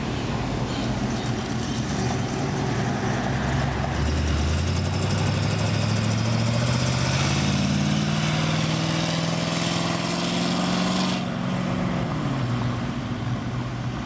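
A car engine pulling away under throttle, its note climbing steadily for about seven seconds, then dropping suddenly as the throttle is released, over the rumble of other engines idling.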